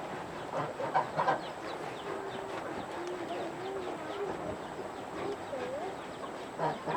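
Chickens clucking, with a wavering low call and a short rising call, over small ticks and two knocks about a second in.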